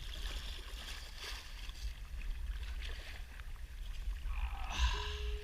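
Wind rumbling on the microphone over faint water and kayak noise on open water. A steady single note sounds for about a second near the end.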